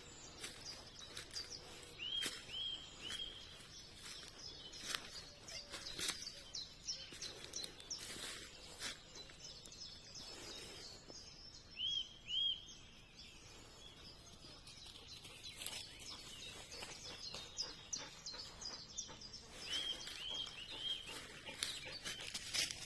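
Birds singing in open country: one bird repeats a short phrase of three or four quick notes three times, about every nine seconds, among many smaller high chirps from other birds, with scattered sharp clicks.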